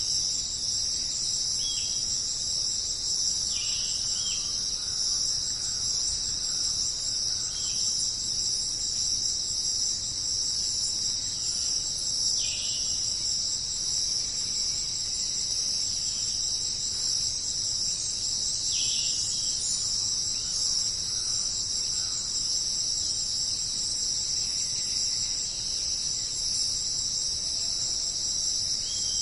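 Dense, steady chorus of crickets chirping, with a bird giving short, falling calls every few seconds.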